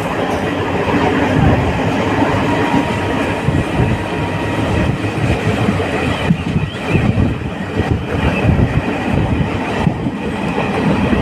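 Passenger train running along the track: a steady rumble with the irregular clatter of wheels over the rails.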